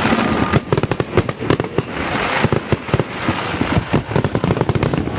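Firecrackers and fireworks going off in quick, irregular succession: a dense run of sharp bangs and crackles over a hiss.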